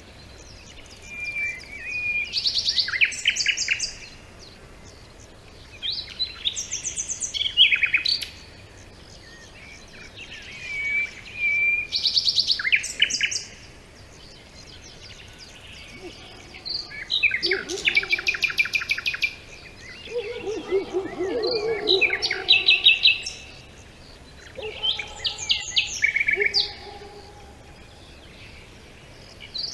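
A songbird singing, delivering short phrases of rapid trills and whistled notes that repeat about every four to five seconds with pauses between, over a faint steady background hiss.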